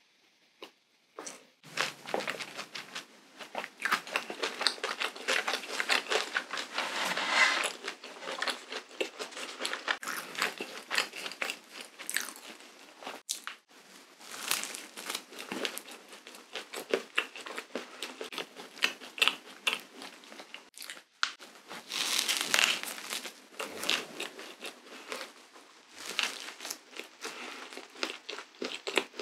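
Close-miked biting and chewing of a cream-filled waffle sandwich: irregular crunching and crackling clicks with wet mouth sounds. It starts after about a second and a half of near quiet.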